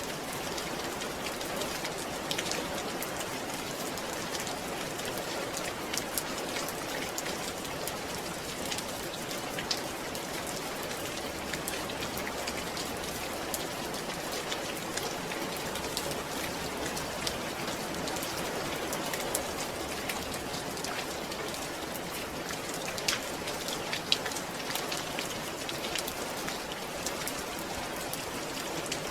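Steady rain falling, an even hiss with scattered sharp drop ticks and a couple of louder drops a little over three-quarters of the way in.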